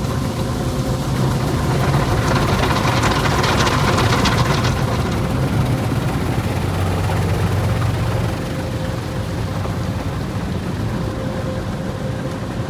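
Automatic tunnel car wash machinery running around the car, heard from inside the cabin: a steady low hum under a rushing hiss that swells for a few seconds about two seconds in.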